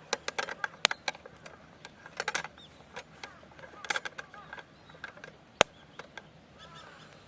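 Irregular sharp clicks and knocks in small clusters, with one much louder crack about five and a half seconds in; small birds chirp near the end.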